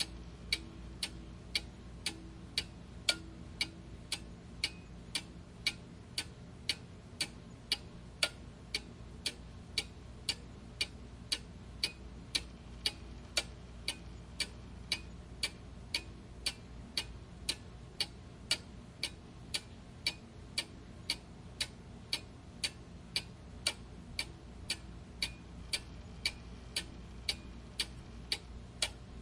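Clock ticking steadily, about two sharp ticks a second, over a faint low hum.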